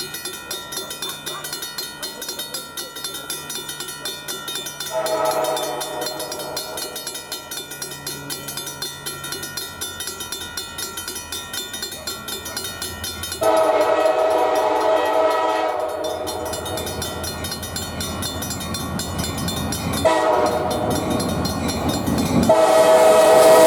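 Diesel locomotive air horn (an EMD SD40-2) sounding a series of long blasts, the loudest near the end, as the train approaches.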